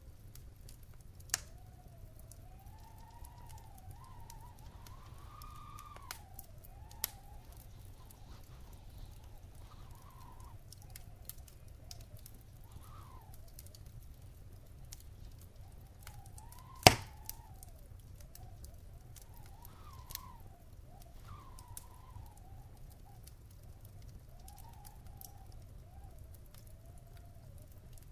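Wood fire crackling in a fireplace: scattered sharp pops and snaps over a steady low rumble, with one loud pop about two thirds of the way in. A faint wavering whistle rises and falls in pitch throughout.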